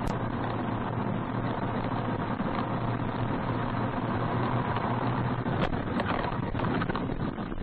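Steady engine and road noise of a moving car as picked up by a dashcam microphone, with a low hum and a couple of faint clicks about two-thirds of the way through.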